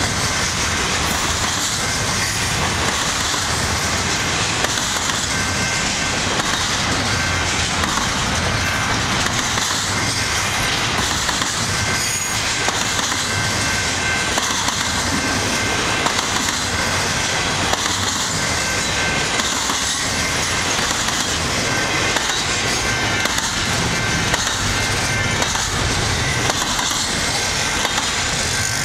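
Long freight train of intermodal well cars and autoracks rolling past at a level crossing: steady rumble and rhythmic clatter of steel wheels on the rails, with the crossing warning bell ringing over it.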